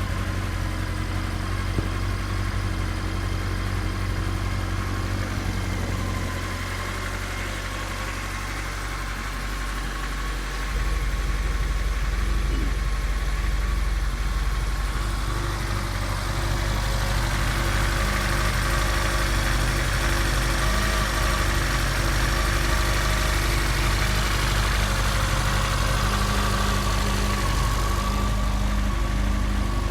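Honda CB1300S inline-four engine idling steadily while warming up after a cold start. About eleven seconds in, it gets louder and deeper.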